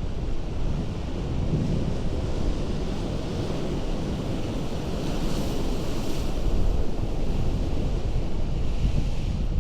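Ocean surf on a rocky coast: a continuous rush of breaking and washing water with a deep low rumble, and a hissing surge about five to six seconds in as a wave washes over the rocks.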